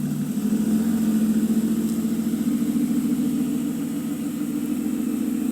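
Car engine idling steadily with an even, fast pulse.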